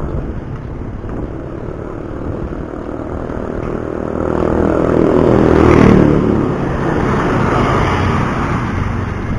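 Wind and road rumble on a cyclist's chest-mounted microphone, with a motor vehicle passing close by that swells to its loudest about six seconds in and then fades.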